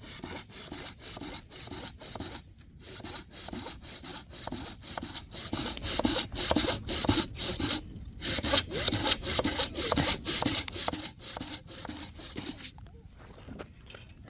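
Hand saw cutting through wood in quick back-and-forth strokes, about three or four a second. It pauses briefly twice and stops shortly before the end.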